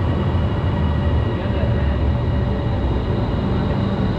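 Airport Rail Link electric train pulling into the station: a steady loud rumble with a thin high whine over it.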